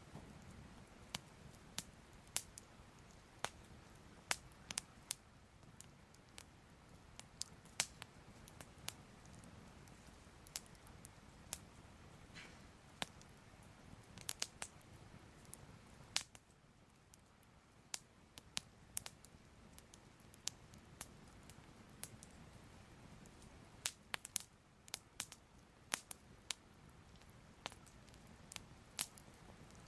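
Soft crackling fire: irregular sharp pops and crackles, sometimes several close together, over a low steady rumble.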